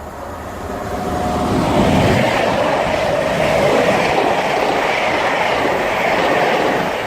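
Class 90 electric locomotive and its intercity coaches passing at speed: a rushing noise that builds over the first two seconds, then holds steady as the train goes by.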